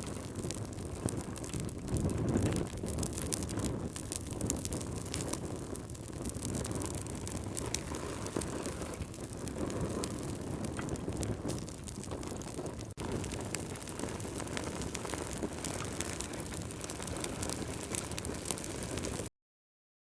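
Campfire burning: a steady low rush of flames with frequent sharp crackles and pops from the burning wood. The sound stops suddenly just before the end.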